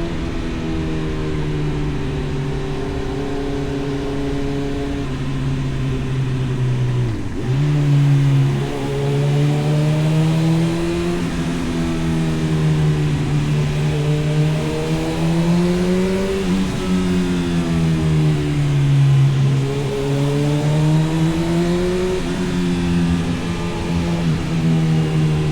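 Honda CB1000R's inline-four engine through an Arrow aftermarket exhaust, heard while riding. The engine note holds steady, drops briefly about seven seconds in, then rises and falls gently several times as the revs change.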